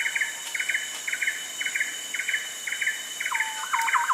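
Rainforest ambience: a steady high insect drone under a short chirping call repeated about twice a second. Near the end a second, lower call joins in a quick run of notes.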